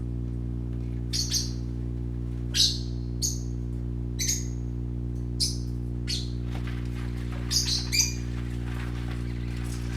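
Young pet parakeets chirping: short, sharp, high chirps about once a second, with a quick pair near the end, over a steady low hum.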